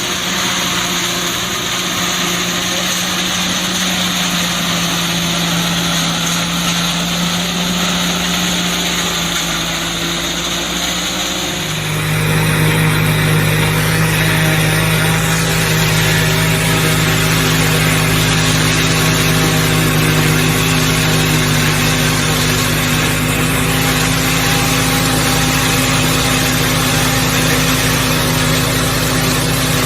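Silage harvester machinery and its engine running steadily. About twelve seconds in, the sound changes to a louder, deeper hum.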